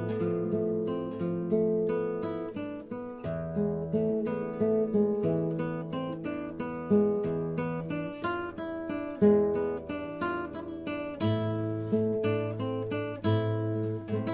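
Instrumental waltz on a plucked string instrument: a melody over bass notes, each note struck sharply and then dying away.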